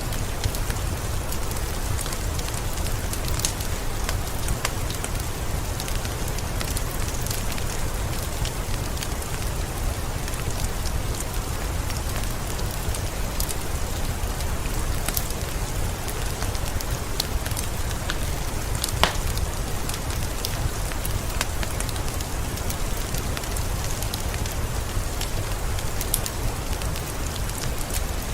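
Steady rain mixed with a wood fire crackling, over a constant low rumble. Scattered crackles and pops come through the rain, and one sharper pop sounds about two-thirds of the way through.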